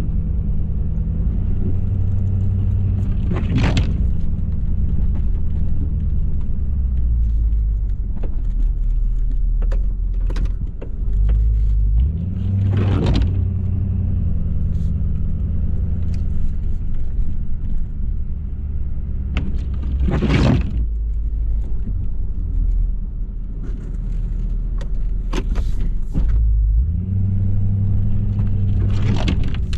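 2018 Ford F-350's 6.7 Powerstroke diesel engine running while plowing snow, its pitch stepping up and down several times as the truck works back and forth. A sharper noise surges over it four times, several seconds apart.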